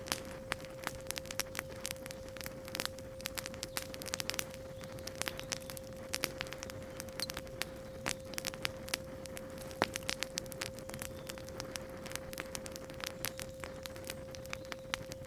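Wood fire crackling with frequent irregular pops and snaps, over a steady 528 Hz pure tone.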